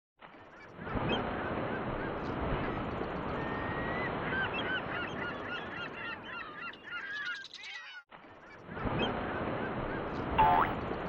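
A flock of birds calling, many short calls over a steady hiss. The sound cuts out briefly about eight seconds in and starts again, with one louder call near the end.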